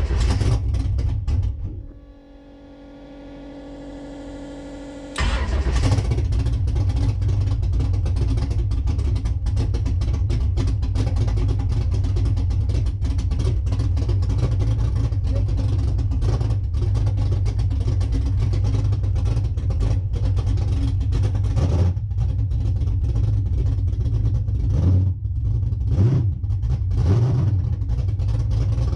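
Drag-race Corvette engine being started to check its oil pressure after a fresh oil and filter change, the low pressure having been blamed on a blocked filter. A loud burst right at the start dies away within about two seconds; the engine then fires about five seconds in and runs loud and steady, with a few short revs near the end.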